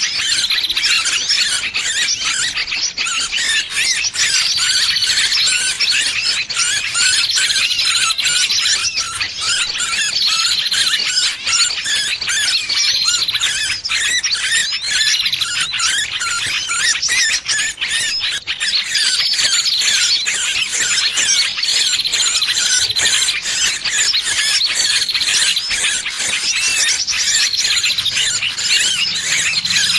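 Distress squealing of a trapped small bird, used as a bird-lure call: a dense, continuous stream of shrill, high-pitched squeals and chirps.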